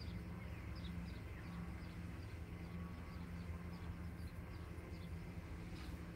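Small birds chirping: a string of short, high chirps, two or three a second, over a steady low hum.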